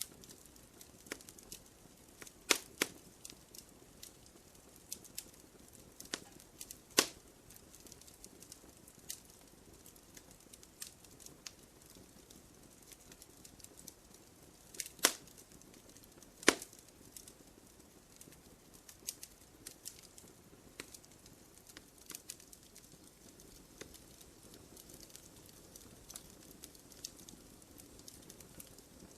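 Wood fire crackling in a fireplace: irregular sharp pops and snaps over a faint hiss, with a few louder pops standing out.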